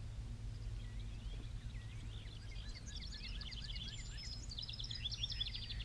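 Songbirds singing, a run of quick high chirps and rapid trills that builds from about two seconds in, over a steady low hum.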